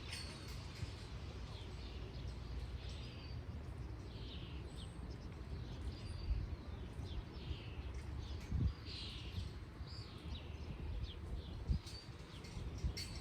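Birds chirping: a run of short, falling chirps repeating throughout over a steady low rumble, with two dull thumps partway through.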